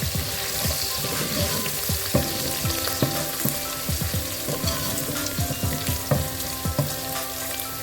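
Chopped onion and coriander stems sautéing in hot vegetable oil in a pan: a steady sizzle with frequent small pops and crackles.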